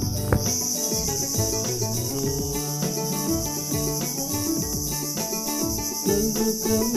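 Continuous high chirring of crickets under melodic instrumental music with a steady low beat; a single sharp click about a third of a second in.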